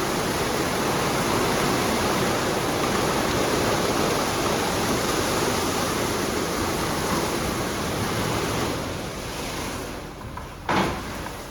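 An automatic car wash's water spray rushing over the car, heard from inside the cabin as a loud, steady hiss. It dies away near the end, and a single short knock follows.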